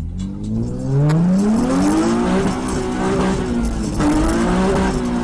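Car engine accelerating hard, its pitch climbing, dipping once about four seconds in as it shifts gear, then climbing again.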